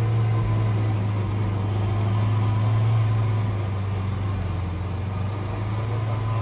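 Lamborghini Veneno Roadster's 6.5-litre V12 idling with a steady, even low hum, holding the same pitch throughout.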